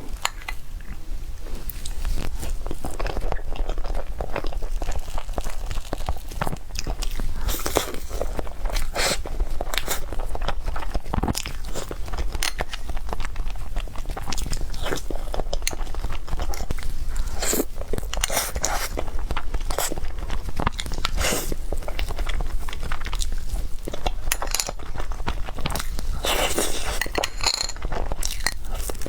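Close-miked eating: repeated crunchy bites and chewing of food, an irregular run of crisp crackles and mouth sounds.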